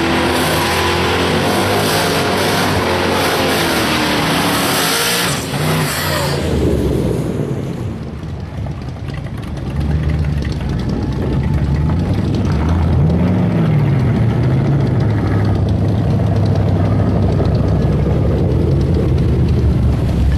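Twin-turbo Holden VE ute engine run hard and loud for about six seconds, then dropping to a lower engine note that revs up and down.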